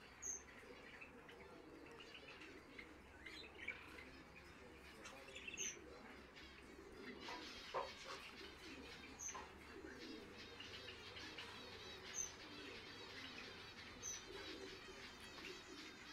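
Java sparrows chirping faintly: a sharp high chirp every two to three seconds over soft, continuous twittering.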